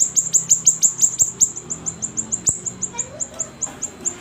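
Siri-siri songbird singing a rapid string of high, sharply falling chirps, several a second, in energetic (gacor) song.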